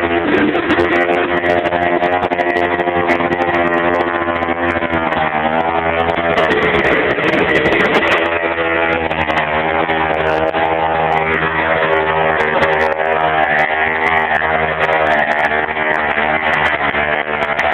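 Gasoline engine of a Wright B520 reciprocating-blade saw running loudly and steadily. Its pitch wavers and dips between about five and eight seconds in, then settles again.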